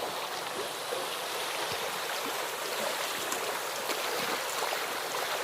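Floodwater flowing past in a steady, even rush.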